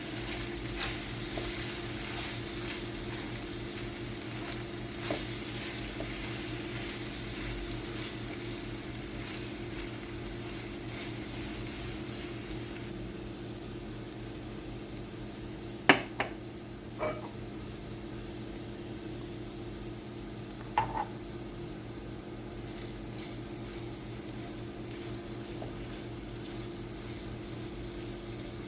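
Food sizzling as it fries in oil in a pan, with a steady low hum underneath. A cooking utensil clinks against the pan a few times past the middle, the loudest just over halfway through.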